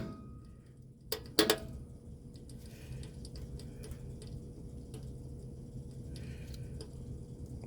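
A few sharp metallic clicks and clinks about a second in, as metal parts are handled, over a low steady rumble.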